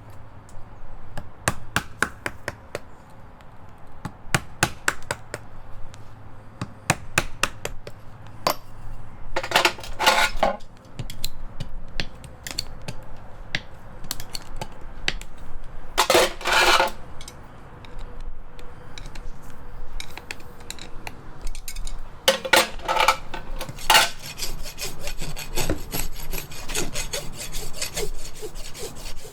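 Horse's hoof being worked by a farrier, with many short sharp clicks and several longer scraping passes of a rasp or knife.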